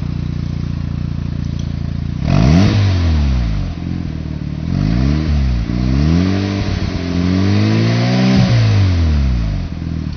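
Mazda RX-7 FD3S's freshly rebuilt 13B twin-rotor rotary engine, breathing through an aftermarket intake, downpipe and Dragger exhaust, idling and then revved three times, the third rev held for a few seconds before it falls back toward idle.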